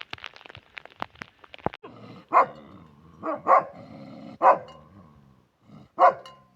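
A dog barking: five short barks, two of them in quick succession, after a couple of seconds of rapid crackling clicks.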